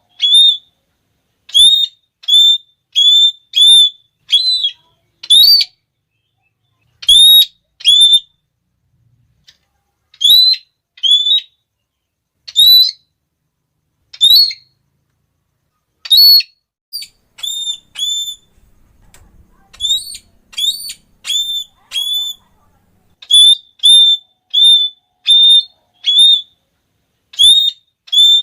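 Red-cheeked parrot calling: short, shrill, high notes repeated in quick runs of several, a 'klee…klee…klee', with brief breaks between runs.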